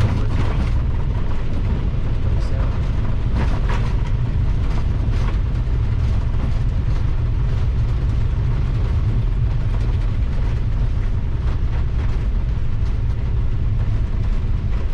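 Airbus A321 on its landing rollout, heard from the cockpit: a steady heavy rumble from the aircraft rolling down the runway, with a few short rattles near the start and about three and a half seconds in.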